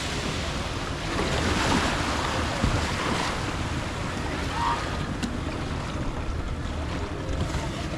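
Wind buffeting the microphone over steady sea and surf noise.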